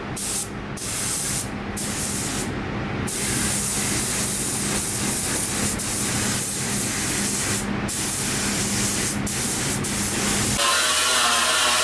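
Compressed air hissing from a pneumatic air tool in a body shop, stopping and starting in short bursts at first, then held on steadily with a couple of brief breaks. About a second before the end it cuts abruptly to a different sound.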